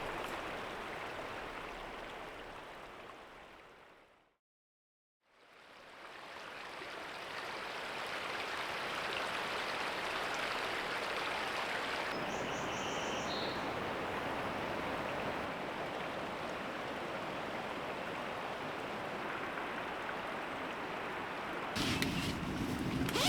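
Steady rush of a flowing creek, fading out to silence a few seconds in and fading back up. A short high chirp comes about twelve seconds in.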